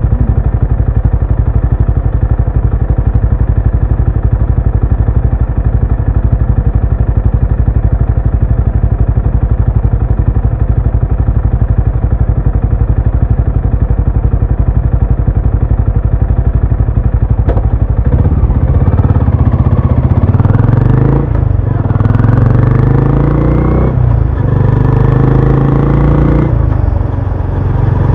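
Benelli Imperiale 400's single-cylinder engine and exhaust running at a steady, even beat. About eighteen seconds in, it accelerates through the gears, its pitch rising and dropping back three times as the rider shifts up.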